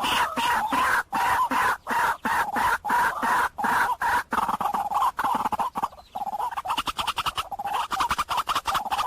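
White-breasted waterhen calling: a rapid, continuous run of harsh, repeated croaking notes in bursts separated by brief pauses.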